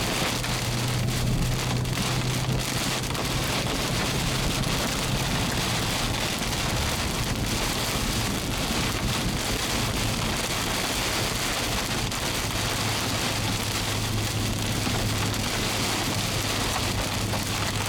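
Heavy rain beating steadily on a moving vehicle, with a steady low drone underneath that fades in the middle and returns near the end.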